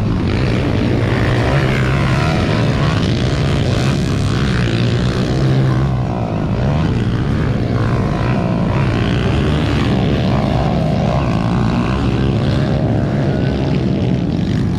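Several motocross motorcycles racing, their engines revving up and falling back in overlapping glides over a steady low drone.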